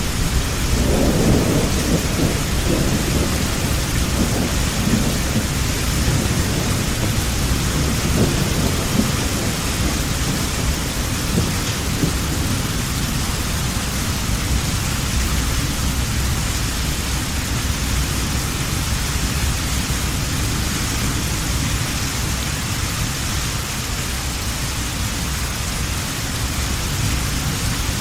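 Heavy rain falling steadily, with a long roll of thunder rumbling over the first several seconds and fading away.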